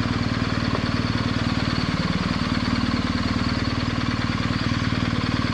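Adventure motorcycle engine running steadily at low revs, its firing beat even and unchanging.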